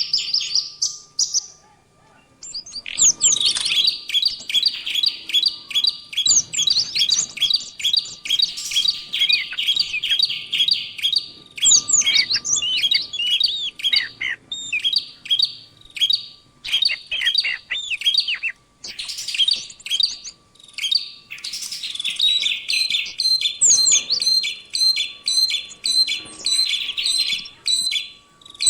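Recorded songbird song used as masteran training audio: rapid high chirps, trills and whistled sweeps in quick phrases with brief pauses. About three-quarters of the way in it changes to a denser, evenly repeated trill.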